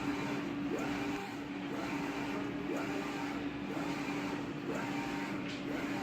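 UV flatbed printer running, its print carriage shuttling back and forth about once a second over a steady motor hum.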